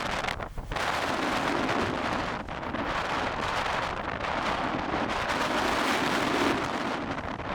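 Strong wind rushing and buffeting the microphone in a steady loud roar, dropping briefly a few times.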